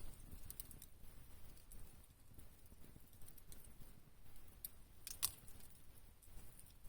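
Wood fire crackling faintly, with scattered sharp pops and one louder pop about five seconds in.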